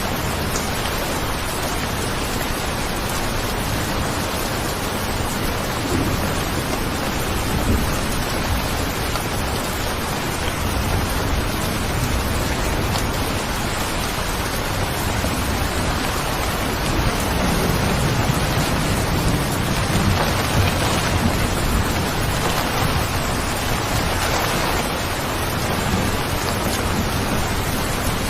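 Steady heavy rain, an even hiss of falling water with no break. A low rumble swells up about two-thirds of the way through and fades again.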